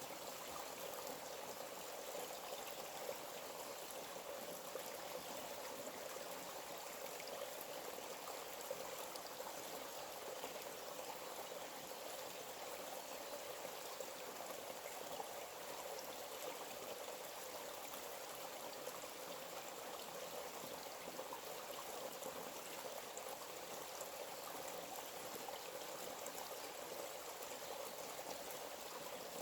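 Forest stream flowing, a steady even rush of water that does not change.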